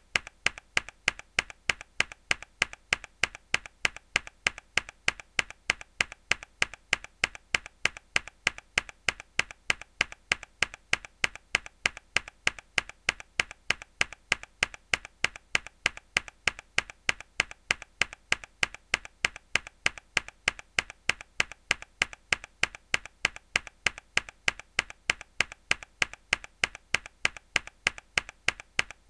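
A single mechanical keyboard key pressed hard, over and over at a steady quick rhythm: sharp clicky keystrokes, each loud strike followed by a softer click.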